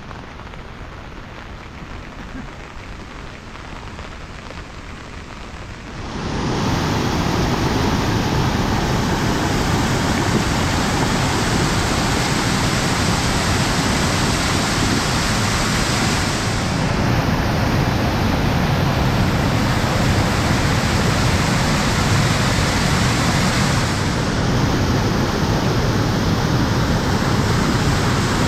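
Heavy rain falling as a steady hiss, which jumps suddenly to a much louder, dense rush about six seconds in and stays steady after that.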